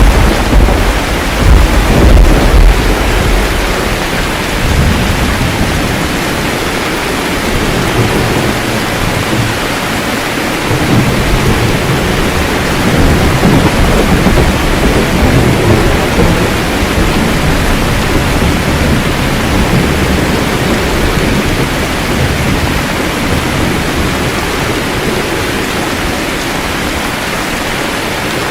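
Steady heavy rain with rolling thunder: a loud low rumble at the start dies away over a few seconds, and another, softer rumble swells and fades about halfway through.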